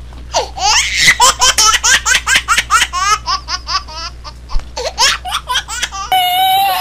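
Laughter, most likely a dubbed-in sound effect: a long run of quick, high-pitched laughing bursts. About six seconds in it gives way to a long, held high wail.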